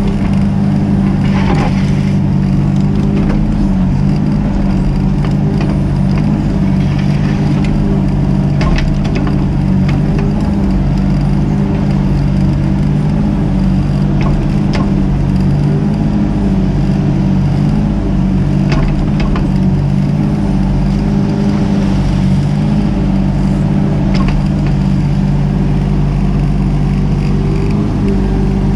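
Mini excavator's diesel engine running steadily at working speed, with scattered sharp clinks and knocks from the digging.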